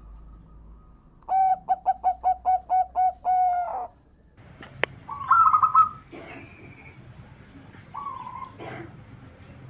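Zebra dove (perkutut) cooing: a quick run of about ten short, even coos ending on a longer note. Softer, higher bird calls and a single sharp click follow.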